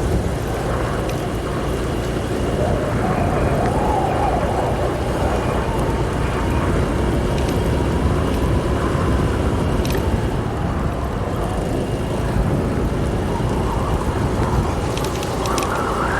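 A motorbike engine running while the bike is ridden, under a steady low rumble of wind buffeting the microphone. The engine pitch rises briefly about four seconds in and again near the end.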